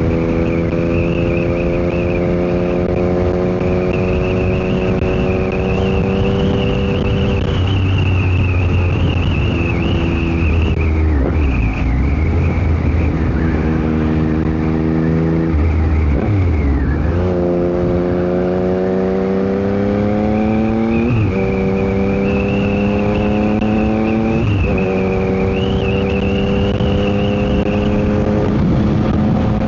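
Yamaha MT-09 SP's three-cylinder engine through an aftermarket Dominator GP exhaust under riding load: the engine note climbs steadily through the gears, dips in revs a couple of times mid-way, and breaks sharply for quick quickshifter upshifts about two-thirds and three-quarters of the way through. Wind noise on the microphone runs underneath.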